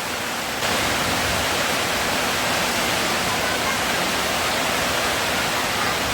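Steady hiss of heavy rain, a little louder from about half a second in.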